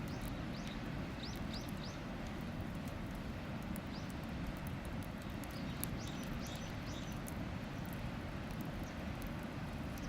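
Wood campfire crackling with small sharp pops, over a steady rushing background. A bird gives short chirps, several times in quick runs of three.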